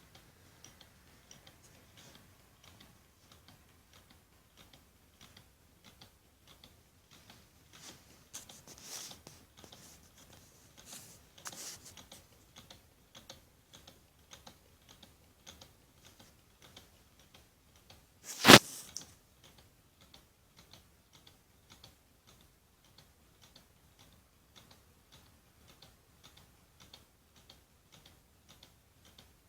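Homemade low-temperature-difference Stirling engine running, its mechanism ticking steadily about twice a second. One sharp, much louder knock comes a little past the middle.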